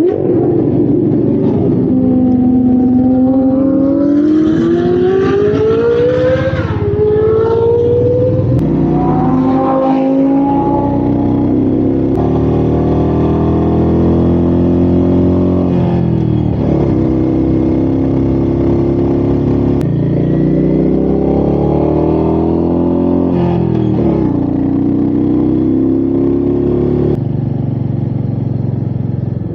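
Royal Enfield Meteor 350's single-cylinder engine pulling hard through the gears. Its pitch climbs in each gear and drops at several gear changes, over wind noise. Near the end the revs fall as the throttle closes.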